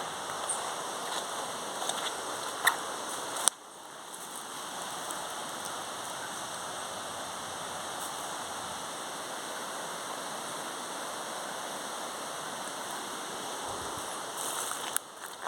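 Steady rushing of water, with a few sharp clicks in the first seconds and an abrupt break about three and a half seconds in, after which the rushing carries on evenly.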